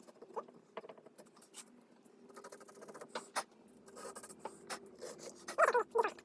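Light scrapes and scattered clicks of small winch parts being handled and fitted on the bench. Near the end comes a short wavering, whine-like pitched sound.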